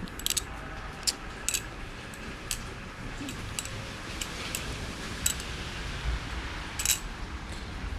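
Balisong (butterfly knife) being flipped: sharp metallic clicks at irregular intervals as the handles knock together and against the blade, about a dozen over several seconds.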